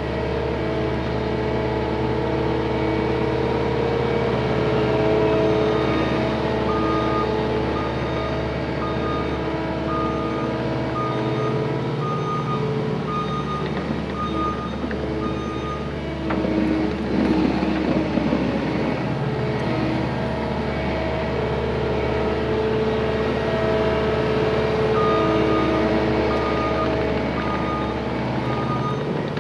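Cat 259D compact track loader's diesel engine running steadily under work, its reverse alarm beeping in a regular pattern while backing up, twice. Around the middle, a rougher, noisier stretch of machine working.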